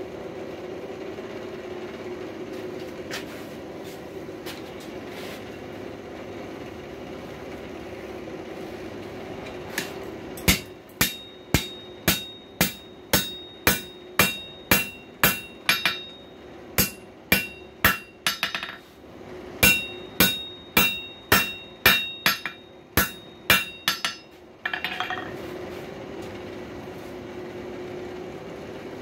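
Hand hammer striking hot coil spring steel on an anvil to straighten it, about two ringing blows a second for some fifteen seconds, with two short pauses. A steady low hum runs before and after the hammering.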